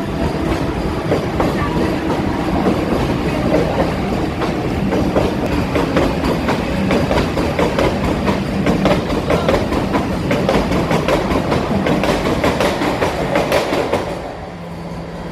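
Vande Bharat Express train passing close by at speed: a loud rush of wheel and rail noise with rapid clickety-clack over the rail joints, dropping off suddenly about a second before the end as the last coach goes by.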